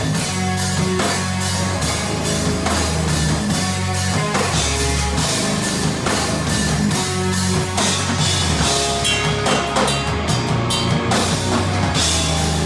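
A rock band's recorded song playing: a steady beat on a full drum kit, with guitar.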